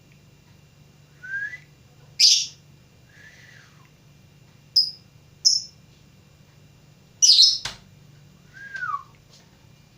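Lovebird giving a broken series of short shrill chirps and a few whistled calls that glide downward, the loudest bursts about two and seven seconds in, with one sharp click just after the second. It is a young bird practising its calls.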